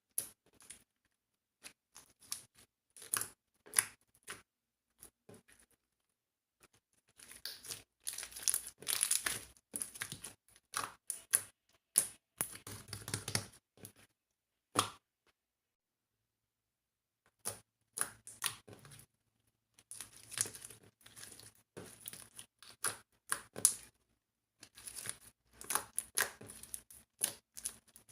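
Mixed clear slime being squished and pressed by hand, giving clusters of sticky crackles, clicks and small pops, with short pauses between handfuls.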